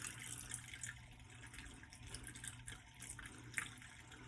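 Chicken broth being poured into a pan of cooking shrimp: a faint, steady trickle of liquid.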